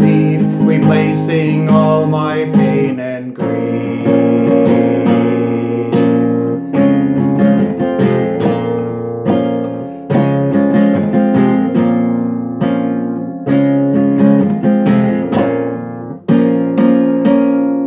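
Acoustic guitar playing chords, struck every second or few and left to ring; the last chord comes near the end and fades away.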